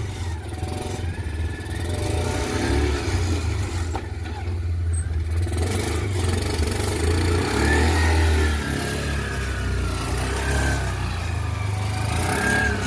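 Small engine of a mini off-road crawler running steadily at low speed, its low drone swelling and easing as the throttle is worked.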